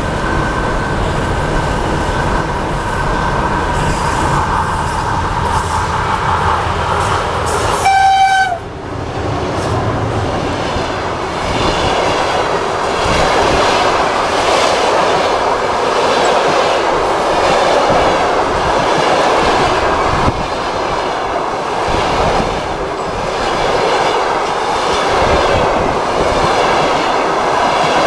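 A passenger train approaching with a steady rumble. About eight seconds in there is a short horn blast, the loudest moment. Then the carriages rush past with wheels clattering over the rail joints.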